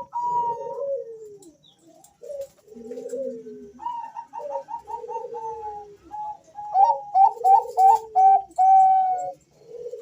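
Male zebra doves (Bangkok perkutut) cooing, two birds calling back and forth: phrases of quick stuttering notes over lower, falling coos, with a short lull about two seconds in.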